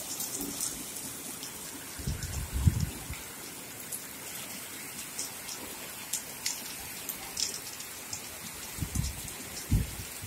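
Steady rain falling on wet ground and puddles, with scattered drop ticks. A few low thumps come about two seconds in and again near the end.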